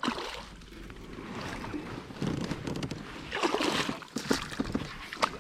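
Wind on the microphone and water noise around a kayak, with louder rustling stretches and a few sharp knocks near the end.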